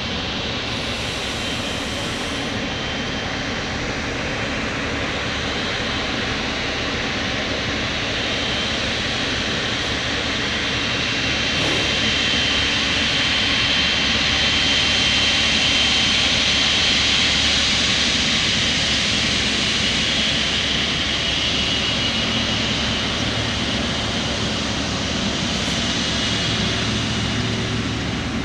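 Boeing 777 freighter's twin jet engines running with a steady high whine, growing louder to a peak about halfway through and then easing off a little.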